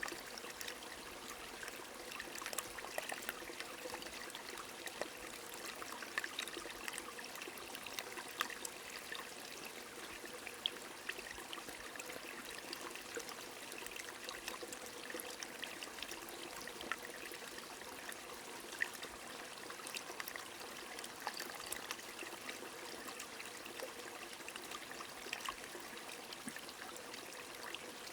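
A small stream running steadily under gentle rain, with many scattered sharp drop ticks over the even rush of water.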